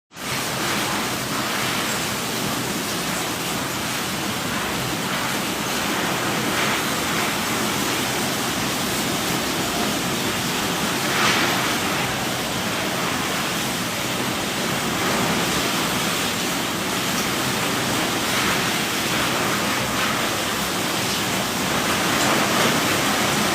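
Heavy rain falling steadily, a dense even hiss that swells briefly about eleven seconds in.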